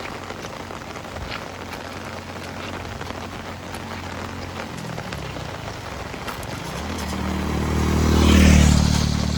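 Steady heavy rain falling. From about five seconds in, a motor vehicle approaches, its engine and tyre hiss on the wet road growing louder to a peak near the end, then beginning to fade.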